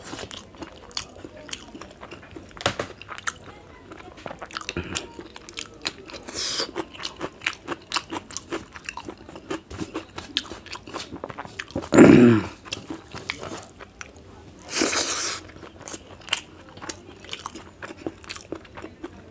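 Close-up mouth sounds of eating: chewing and crunching with many small wet clicks and smacks. Two loud breathy rushes of air, about six and fifteen seconds in, and a short voiced sound falling in pitch about twelve seconds in, the loudest moment.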